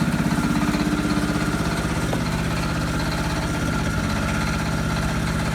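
An engine idling steadily, with a pulsing beat that smooths out after about a second and a half.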